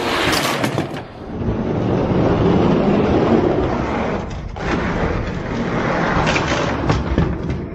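Die-cast toy monster trucks rolling down a plastic racetrack, a dense steady rumbling rattle of small wheels on track.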